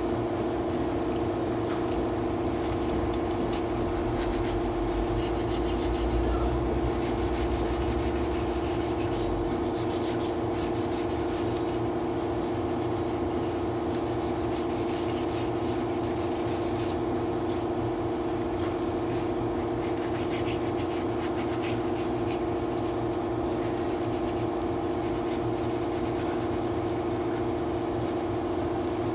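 Power sander running steadily against a car body panel, a constant motor whine over a rasping rub, as paint and filler are sanded down during dent repair.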